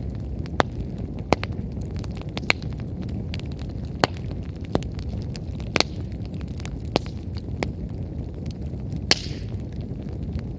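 Wood fire burning: a steady low rumble of flames with irregular sharp crackles and pops from the burning firewood, and a short hiss about nine seconds in.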